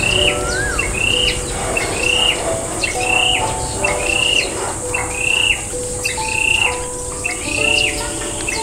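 A bird calling over and over, one short note a little more than once a second, over a steady high insect buzz. Soft background music with held notes plays underneath.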